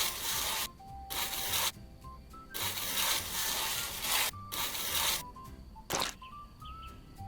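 Scraping or rubbing noise in four bursts, the longest nearly two seconds, over light background music with a melody. A short sharp click comes about six seconds in.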